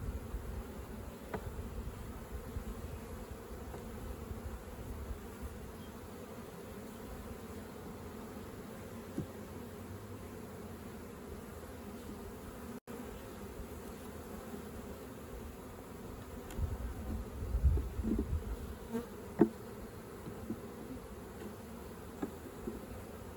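Honeybees buzzing in a steady hum around an open hive during a swarm-trap transfer. A few louder low thumps and knocks come about two-thirds of the way through.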